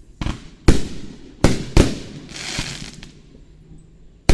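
Aerial fireworks shells exploding: a quick string of sharp booms in the first two seconds, a fizzing crackle in the middle, and another loud boom near the end.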